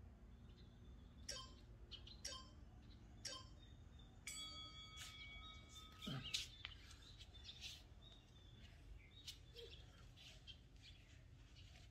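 Faint birds chirping in a quiet outdoor setting: a run of short, falling chirps about once a second near the start, a brief held whistled note around four seconds in, then scattered chirps. About six seconds in there is a short low sound, the loudest moment.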